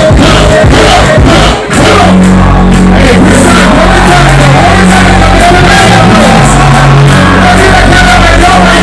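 Very loud live music over a concert sound system, with singing and a crowd shouting along. The beat cuts out briefly just under two seconds in, then heavy, held bass notes take over.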